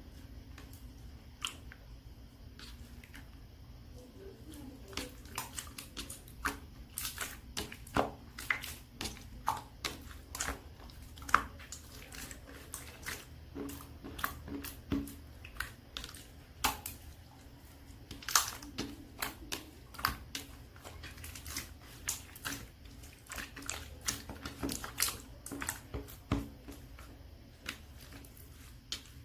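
Clear glitter slime being pressed and stretched by hand, giving irregular sticky clicks and small pops, which grow frequent from about five seconds in.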